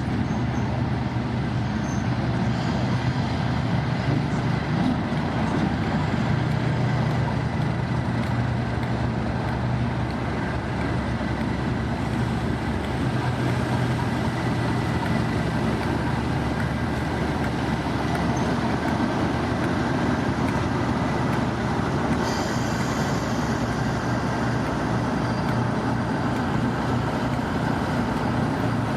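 A train running at steady speed: a continuous rumble with a steady low hum. A faint hiss joins about three-quarters of the way through.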